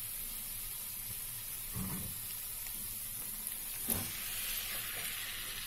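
Fried masala sizzling steadily in a kadhai as marinated chicken pieces go into the hot pan, with soft thuds about two and four seconds in.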